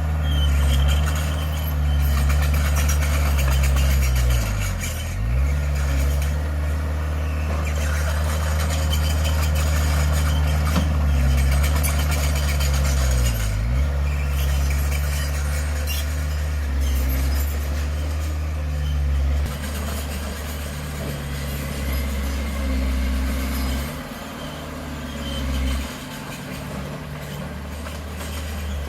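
Heavy diesel engine of earthmoving equipment running steadily under work, its pitch dipping briefly twice, about five and thirteen seconds in.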